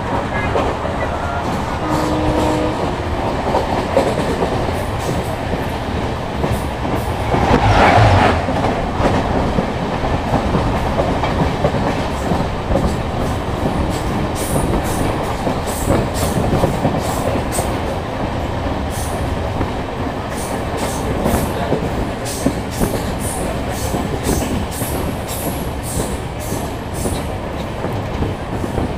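Train wheels running on the track, a steady rumble with clickety-clack, heard from on board a moving train. It swells into a louder rush about eight seconds in, and through the second half there is a run of sharp, quick clicks.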